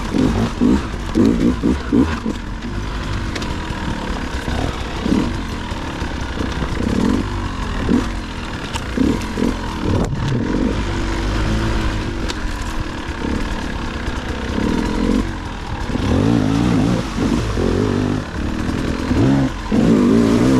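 Dirt bike engine revving in short bursts of throttle, its pitch rising and falling again and again, with brief dips in between.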